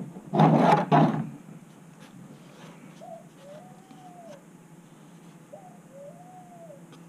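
Two low cooing bird calls a couple of seconds apart, each a short note run into a longer note that rises and falls, over a faint steady hum. A loud burst of noise about a second long comes at the very start.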